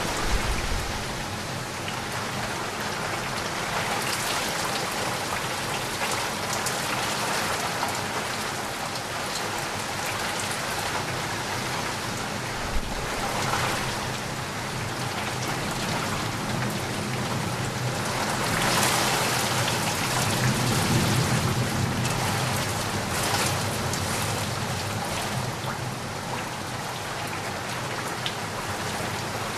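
Heavy rain falling steadily as a dense hiss of drops on surfaces. It swells louder for a few seconds about two-thirds of the way through.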